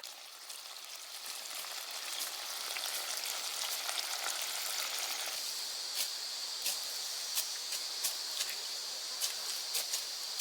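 Quiet outdoor ambience: a steady crackling hiss, with an insect's high, steady trill coming in about halfway and scattered light clicks.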